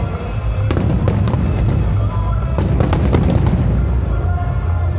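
Fireworks going off in quick succession: a string of sharp bangs and crackles over a continuous low rumble of bursts.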